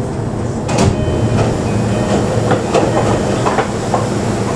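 Cabin of a JR East E233-2000 series electric train: a steady low running rumble with a string of sharp wheel clacks over the track joints from about a second in, as the train comes into a station stop.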